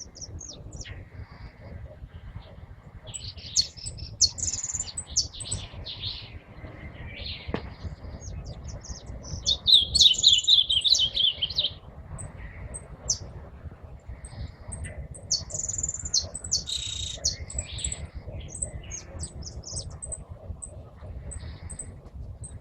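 Several pet songbirds chirping and calling, with one loud warbling song phrase about ten seconds in and another flurry of calls a few seconds later. A low rumble runs underneath.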